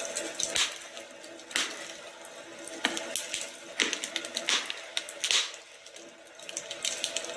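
Wood fire crackling in a fireplace, with irregular sharp pops about once or twice a second over a faint steady background.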